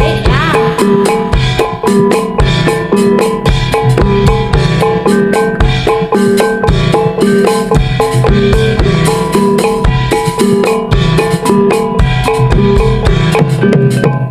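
Jaranan gamelan accompaniment played loud through a PA: driving hand drums with a dense rhythm and struck pitched instruments repeating a short two-note figure.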